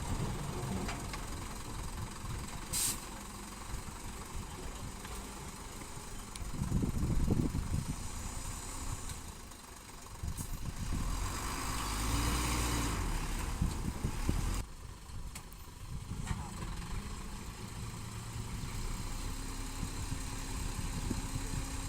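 Diesel engines of a small bulldozer and dump trucks running at a fill site, with a brief hiss about three seconds in. The machinery grows louder for a few seconds past the middle, then drops off suddenly.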